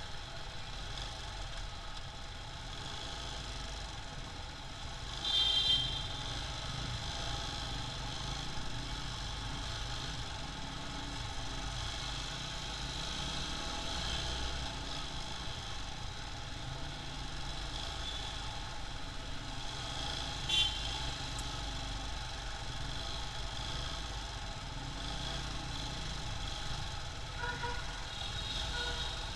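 Steady road and engine noise of a motorcycle ride in city traffic. A brief, louder high tone sounds about five seconds in, and a short sharp sound about twenty seconds in. Rising whistle-like tones come near the end.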